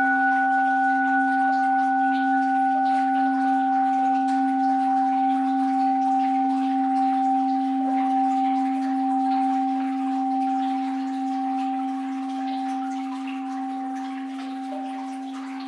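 An orin, a Japanese Buddhist bowl-shaped bell, rings on after being struck just beforehand. It holds a low hum with two clear higher tones, and the upper tone fades away first as the whole ring slowly dies down.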